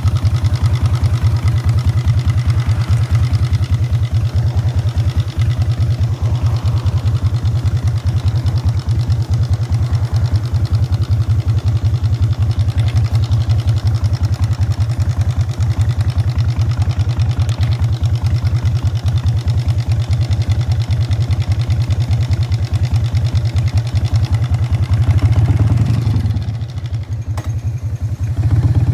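Exhaust note of a 1999 Harley-Davidson Fat Boy's Evolution V-twin through Python mufflers while riding, a steady run of rapid, deep pulses. About 25 seconds in it swells, drops back for a couple of seconds as the throttle eases, then picks up again near the end.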